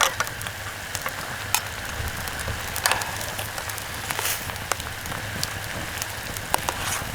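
Food sizzling over a wood campfire, with scattered sharp crackles from the burning wood.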